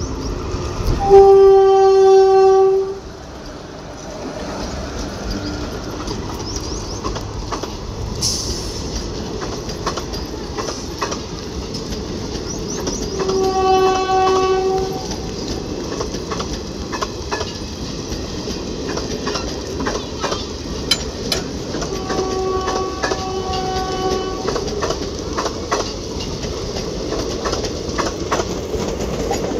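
Electric locomotive horn of an Indian Railways passenger train sounding three times: a loud blast of about two seconds near the start, a second blast about halfway through and a fainter third about two-thirds through. Between the blasts the coaches roll past with a steady rumble and wheels clicking over the rail joints.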